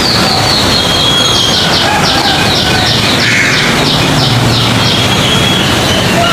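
A small bird calling: a rapid series of about a dozen short, high, down-slurred notes, about three a second, over a steady loud hiss of background noise.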